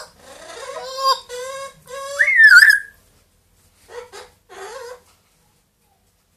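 Pet parrot vocalising: a run of pitched, whistle-like calls with gliding pitch, the loudest a rising whistle about two and a half seconds in, followed by a few short raspy sounds around four to five seconds.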